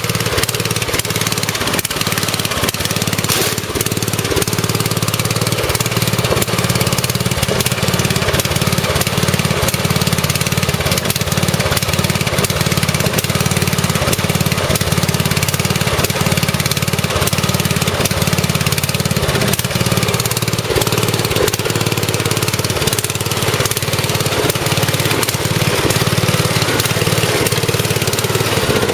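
Briggs & Stratton engine of a Murray riding tractor idling steadily after a carburettor adjustment. The idle is not perfect, which the owner puts down to the engine being a bit cold.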